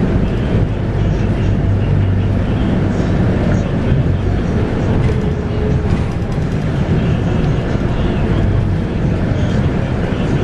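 Scania K230UB bus running, heard from inside: a steady low rumble from its 5-cylinder Scania DC9 engine and road noise, with a faint whine rising slightly about halfway through.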